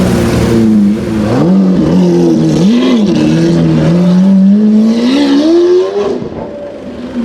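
Lamborghini Aventador V12 engine revving. A few quick blips come about a second in, then one long rising rev that cuts off sharply about six seconds in, after which the engine is quieter.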